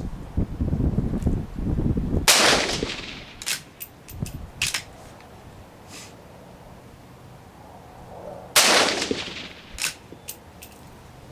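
Two rifle shots from a Browning T-Bolt straight-pull .17 HMR rimfire rifle, about six seconds apart, each with a short echoing tail, and a few light clicks between them. Wind rumbles on the microphone in the first couple of seconds.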